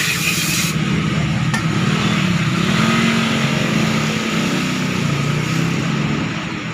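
An engine running with its pitch rising and falling. A loud hiss, like a spray or air blast, cuts off under a second in.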